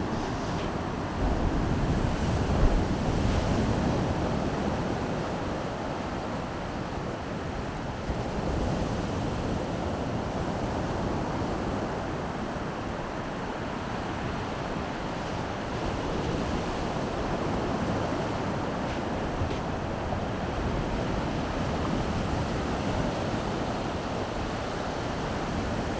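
Baltic Sea surf washing steadily onto the shore in a continuous wash of waves, louder a second or two in, with wind rumbling on the microphone.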